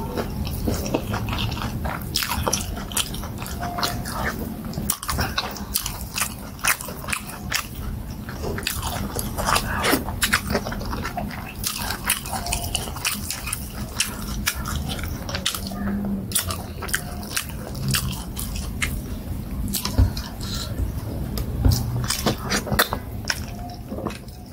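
Close-miked eating sounds: wet chewing and lip smacks of someone eating soft plantain fufu with black soup by hand, many small clicks throughout.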